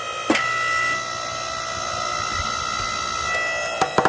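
Log splitter's motor running with a steady whine as the ram pushes into a log, with a sharp knock just after the start; near the end the wood begins to crack and split in a quick run of snaps.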